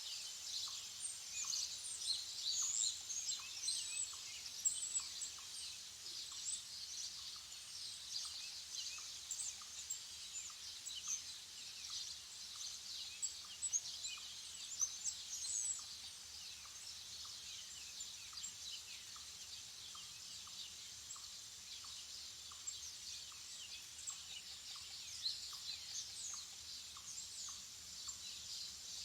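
Many small birds chirping and singing together in a busy morning chorus of short high chirps and quick glides, thicker in the first half. Under them a faint short note repeats steadily about twice a second.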